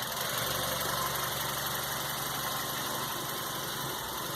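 Hyundai i30 petrol engine idling steadily. The engine has an intermittent misfire on cylinders 1 and 3, which the mechanic traces to a bad spark plug.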